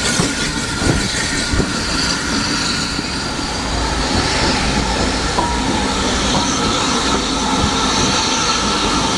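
Heritage railway train running along the track: a steady rumble and rail noise, with two knocks from the wheels in the first couple of seconds.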